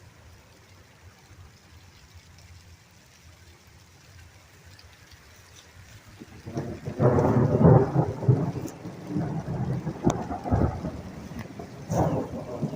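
Steady rain, then about six and a half seconds in a loud clap of thunder breaks and rolls on, rumbling with sharp cracks near the end.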